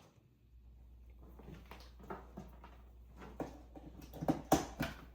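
KitchenAid stand mixer running with a snack coater drum attached: a low steady hum from about half a second in, with irregular clicks and rattles that grow louder near the end.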